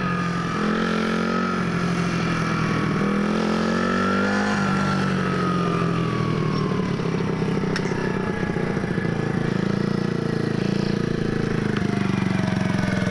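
Small kick-start dirt bike engine running as it is ridden, climbing in pitch under throttle up to about four seconds in, then falling away and settling to a steadier run near the end.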